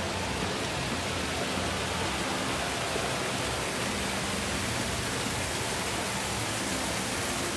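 Steady rush of falling water from a waterfall in an indoor garden atrium.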